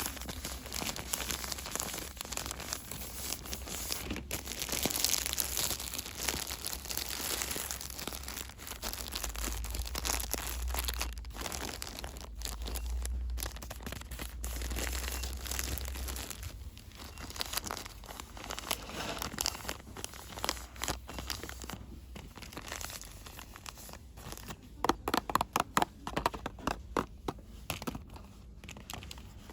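Packaging being crinkled and rustled by hand, with a run of quick, sharp taps near the end.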